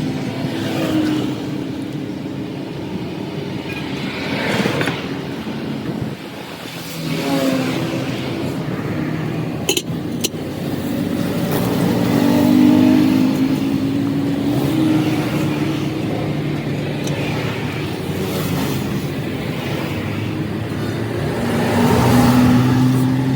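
A motor running steadily, its pitch drifting slowly up and down, with a single sharp metallic knock about ten seconds in.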